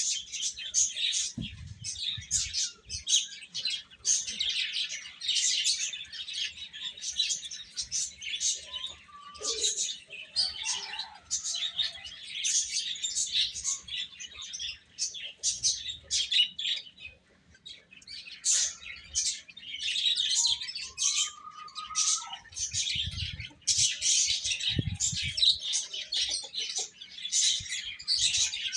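Baby chicks peeping: many short, high chirps overlapping almost without pause, with a brief lull a little past the middle.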